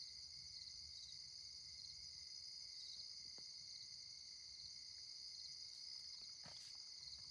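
Faint, steady high-pitched chorus of crickets and other night insects chirping, with two faint ticks partway through.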